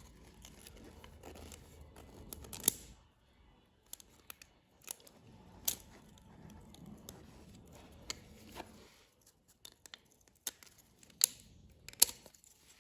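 Piston rings being worked by hand onto a tractor engine piston: scattered sharp metallic clicks and short scrapes as the rings are spread and slipped into their grooves.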